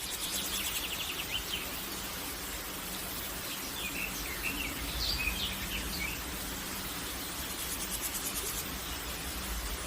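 Outdoor natural ambience: a steady hiss with a few short bird chirps around the middle, and a fast, high insect trill near the start.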